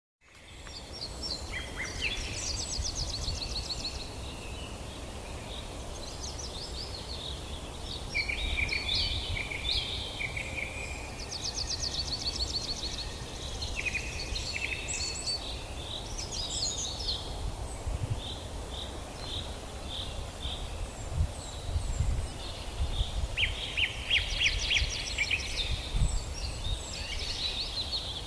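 Several songbirds singing and calling together: fast trills, repeated chirps and short whistled notes overlapping throughout, over a steady low rumble.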